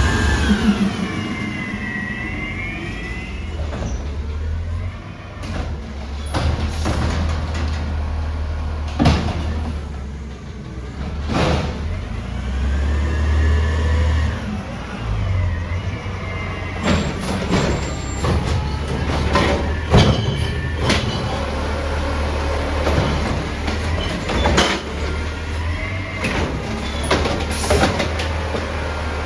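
Amrep-bodied garbage truck running during collection: a steady low engine drone under a whine that rises and falls several times, and repeated sharp bangs and clanks.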